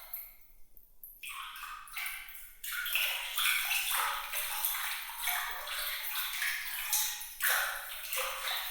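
Sparkling water sound effect: bright trickling and dripping with scattered pinging glints. It thins almost to nothing for about a second near the start, then returns.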